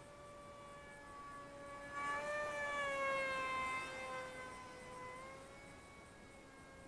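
Electric brushless motor and pusher propeller of a small RC foam jet whining in flight. The whine grows louder about two seconds in, then sinks in pitch and fades.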